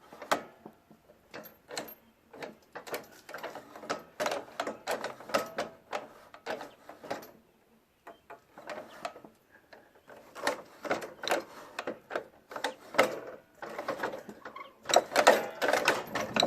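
Irregular metal clicks, knocks and rattles of a Toro 521 snowblower's friction-wheel drive linkage being worked back and forth by hand, pausing briefly about halfway and growing busier near the end.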